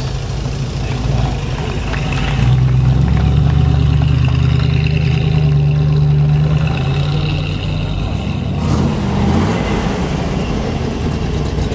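Car engine running at low speed as a car rolls past, a steady low drone that grows louder a few seconds in and eases off, with a brief drop in pitch near the end.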